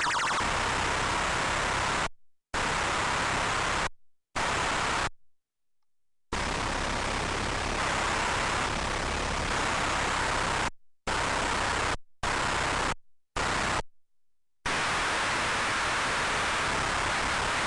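A loud, steady hiss like static that cuts out abruptly to silence about seven times, each break lasting from a split second to about a second.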